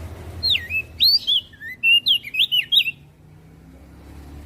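Crested white-eye (opior jambul) singing a fast run of sweeping whistled notes that dip and rise, stopping about three seconds in. A low steady hum runs underneath.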